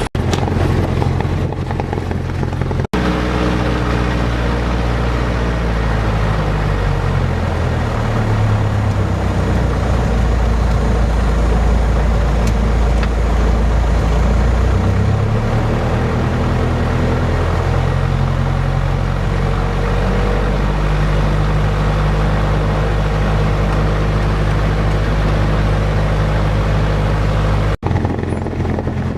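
Single-engine Cessna 172 Skyhawk piston engine and propeller running, heard from inside the cabin: a loud, steady drone that rises and falls in pitch a couple of times. It breaks off abruptly twice, about three seconds in and near the end.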